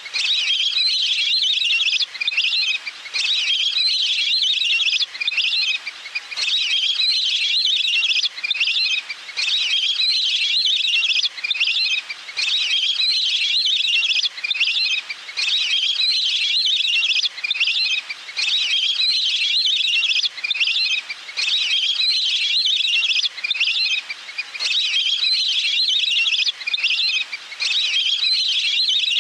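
Looped lure recording of a waterbird's call: a high, trilling phrase about two seconds long, repeated over and over with short breaks between.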